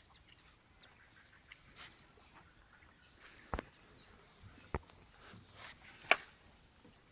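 Quiet open-air ambience with a steady high-pitched whine, scattered sharp clicks and ticks, the loudest about six seconds in, and one short falling chirp, like a bird note, about four seconds in.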